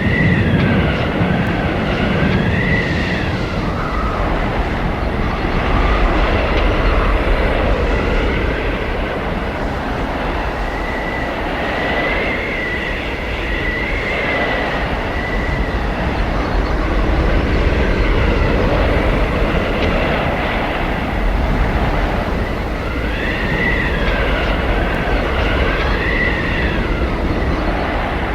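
Arctic blizzard wind: a steady rush of wind with a low rumble underneath. Whistling howls glide up and down in pitch in a few gusts, near the start, about midway and near the end.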